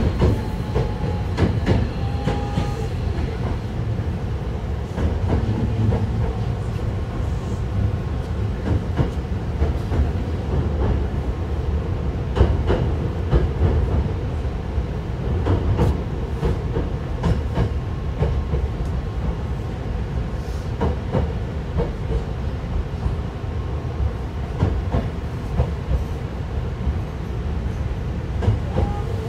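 Hankyu 1000 series electric train with Toshiba permanent-magnet synchronous motors running along the line, heard from inside the car: a steady rumble of wheels on rail with scattered clicks as the wheels cross rail joints.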